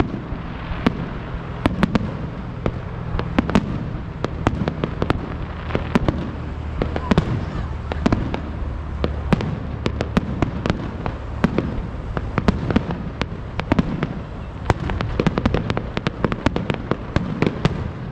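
Fireworks display: a rapid, continuous string of sharp bangs and crackles over a steady low rumble, getting denser near the end.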